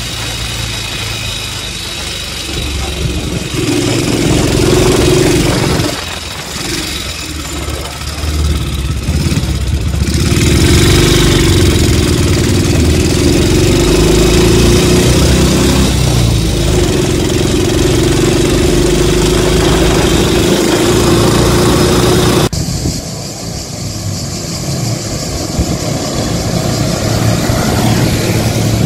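Terrot 500 cc single-cylinder motorcycle engine pulling a sidecar on the road, its note easing off and picking up again with the throttle, with wind rushing past the microphone. Near the end the sound cuts abruptly to a quieter, more distant engine sound as the outfit approaches.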